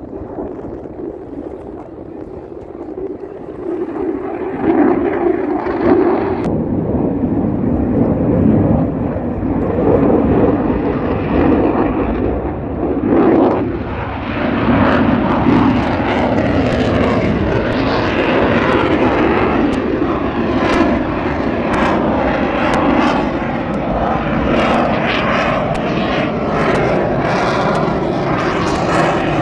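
Airplane engine noise from a low pass overhead, swelling over the first few seconds and then staying loud and steady.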